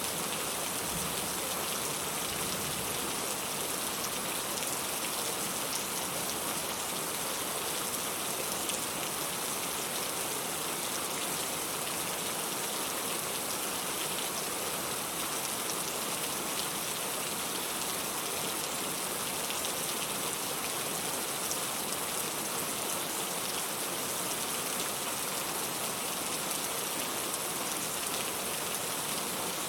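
Steady rain falling, an even, unbroken hiss of drops with no thunder heard.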